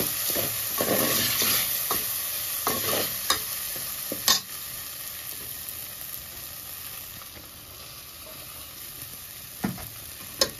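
Sabudana (tapioca pearls) frying in hot ghee in an aluminium pot and being stirred with a steel ladle, the ladle scraping and knocking against the pot. The stirring stops partway and a quieter steady sizzle goes on, with a few sharp ladle knocks near the end.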